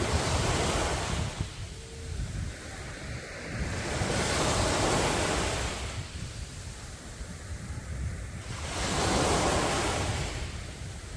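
Sea waves breaking and washing up a beach, three surges about four to five seconds apart, over a steady low rumble of wind on the microphone.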